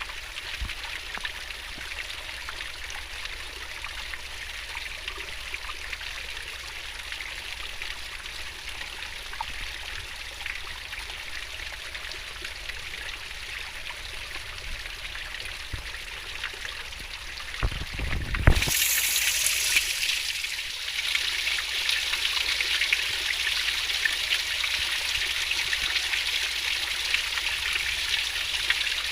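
Stream water flowing swiftly over rocks, a steady babbling rush. About two-thirds of the way through there is a short low thump, after which the water sounds louder and brighter.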